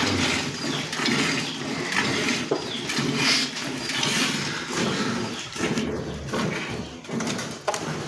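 A cow being milked by hand: short hissing squirts of milk into a pail, coming in a rough rhythm, with farmyard animal noise around.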